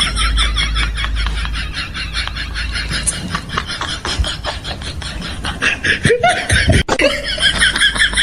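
People laughing, in quick repeated pulses.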